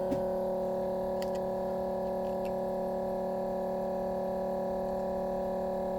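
A steady hum of several even tones at an unchanging pitch, with a few light clicks about a second in and again around two and a half seconds.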